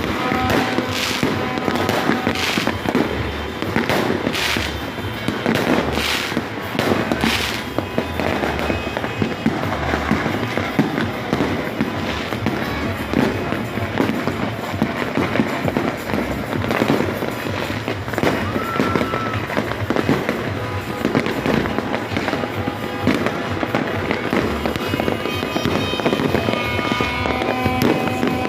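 Fireworks and firecrackers going off in a dense, continuous crackle, with a run of loud bangs in the first seven seconds or so.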